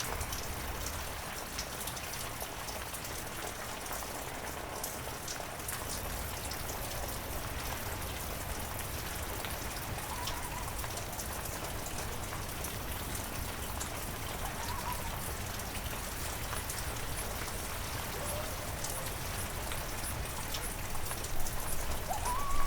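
Steady heavy rain falling, with many sharp drop ticks on a surface. Near the end a brief, louder sliding sound rises over the rain.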